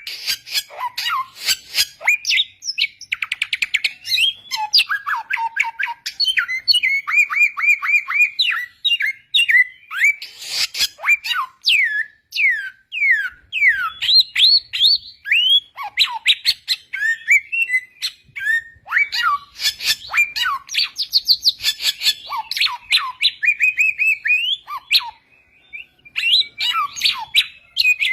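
A samyong (garugiwa) singing a fast, varied song of sweeping whistled notes, rapid trills and sharp chirps, with a short pause near the end.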